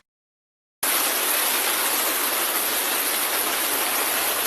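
Silence for under a second, then a steady rush of floodwater, an even hiss.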